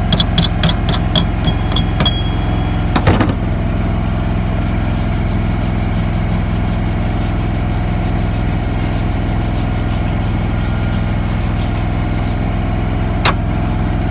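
Champion Elite engine-driven welder/generator running steadily. A quick run of ringing metallic taps in the first two seconds, a sharp knock about three seconds in, and a single click near the end.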